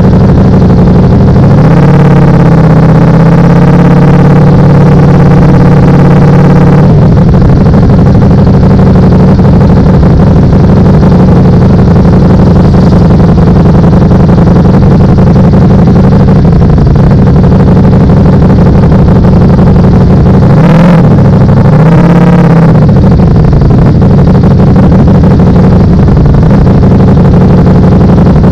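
Ducati Panigale V4 engine running at low road speed, its note rising for a few seconds near the start and cutting off sharply about seven seconds in. Two quick rises and falls in revs come about twenty seconds in.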